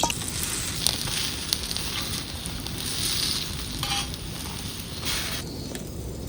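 Food frying in hot oil: a steady sizzle with small crackles that eases off about five seconds in.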